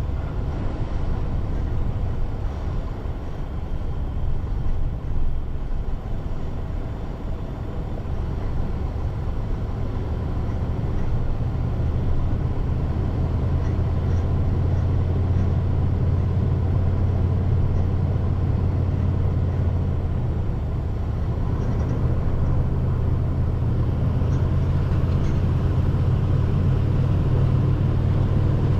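Car being driven: a steady low rumble of engine and road noise, growing louder about twelve seconds in.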